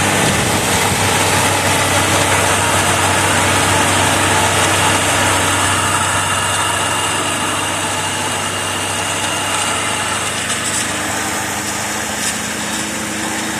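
1984 Cadillac Seville's V8 engine running steadily on its first start after restoration, easing a little in the second half.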